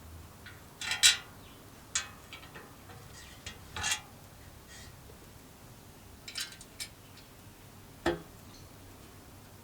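Metal parts clinking and tapping as they are handled, a scatter of short, sharp clinks with the loudest just after a second in and a duller knock with a brief ring about eight seconds in.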